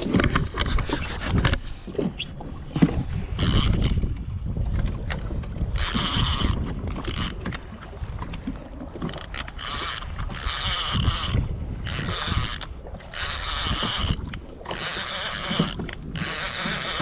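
Wind buffeting the microphone on a fishing boat at sea, with a rough low rumble throughout. From about six seconds in there are repeated short bursts of high hiss.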